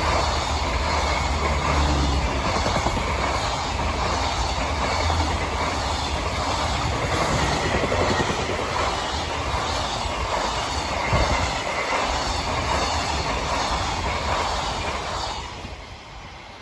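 Freight train passing at speed: a steady rolling rumble and clatter of wagon wheels on the rails, fading away over the last second or two as the end of the train goes by.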